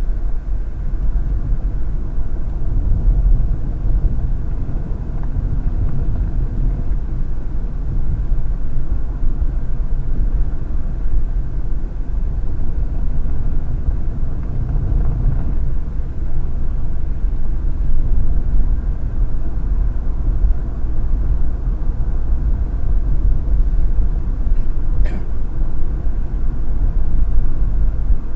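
Car driving on the road, heard from inside the cabin: a steady low rumble of tyre and engine noise. A brief faint click near the end.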